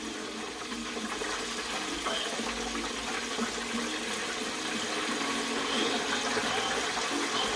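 Chicken pieces deep-frying in olive oil at about 310 °F, a steady sizzle.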